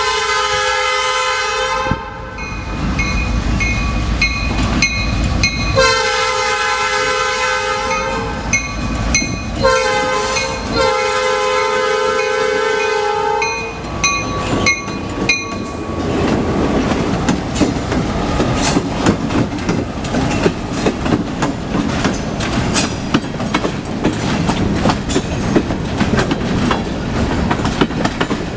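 Norfolk Southern freight train's locomotive horn sounding a chord in the long, long, short, long pattern of a grade-crossing signal. After the last blast, about halfway through, the train rolls past with rapid, continuous clickety-clack of wheels over rail joints.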